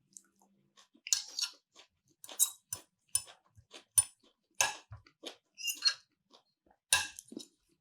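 A person chewing food close to the microphone: a dozen or so short, irregular mouth and bite sounds with quiet gaps between them.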